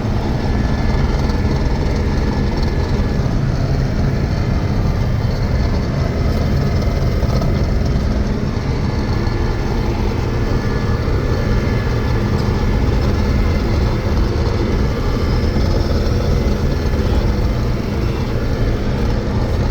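John Deere 6620 Turbo combine's turbocharged diesel engine running steadily with a constant drone.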